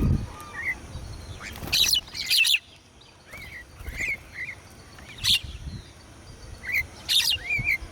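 Small birds chirping: a few short, sharp chirps, the loudest about two, five and seven seconds in, with softer brief whistled notes in between.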